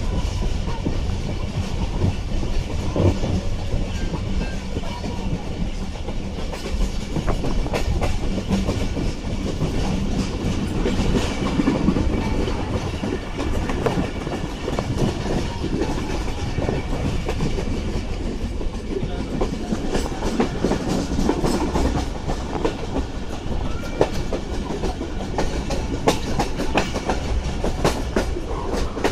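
Passenger train running along the line, heard from on board: a steady rumble of the carriage with the wheels clicking and clacking irregularly on the rails.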